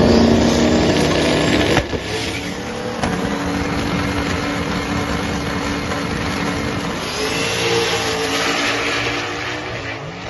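Drag race cars' V8 engines running hard at full throttle down the dragstrip. The note holds steady, shifts in pitch about seven seconds in, and fades toward the end.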